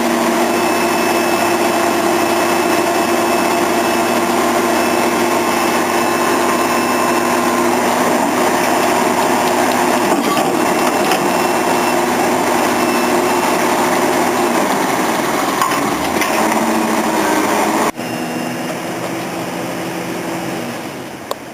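Engine of a pile-driving rig running steadily with a constant hum. Its note drops around fifteen seconds in, and about eighteen seconds in the sound cuts suddenly to a quieter engine hum.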